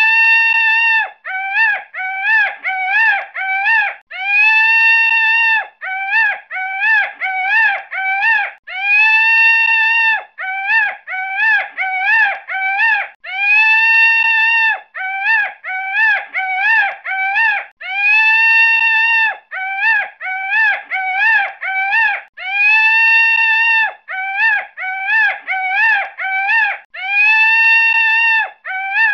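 A high, whining animal call repeated over and over in a regular pattern: quick short notes that rise and fall, with one longer held note about every four to five seconds. This is not the high, rapid warbling of skylark song.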